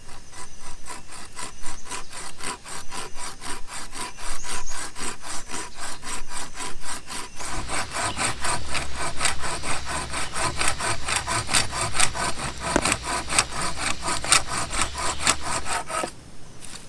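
Hand saw cutting through wood in quick, steady back-and-forth strokes, getting louder about halfway through and stopping near the end.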